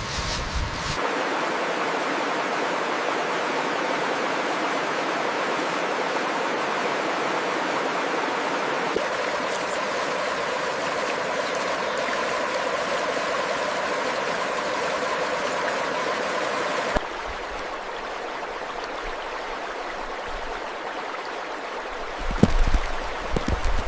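Steady rush of a stream, in a few spliced stretches of slightly different tone, with a few knocks and low rumbles near the end.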